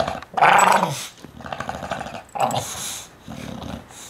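English bulldog growling in several rough bursts while refusing to give up something it holds in its mouth, a play growl during keep-away.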